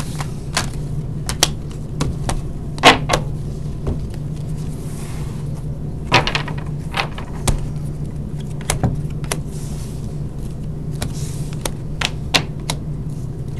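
Hockey card box and packs being opened and handled, heard as scattered sharp clicks and short rustles of paper and wrapper, over a steady low hum.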